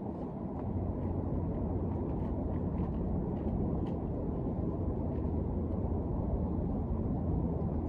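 Steady drone of a gas-engine pressure washer running without a break, a low hum with a dull rushing noise above it.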